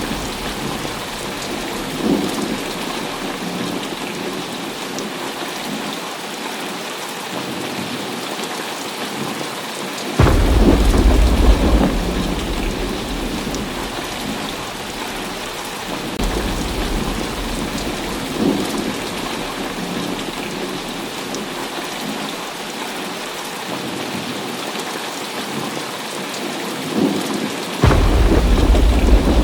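Heavy rain falling steadily, with rolls of thunder that break in suddenly about ten seconds in, again around sixteen seconds, and near the end, each rumbling for a few seconds before fading.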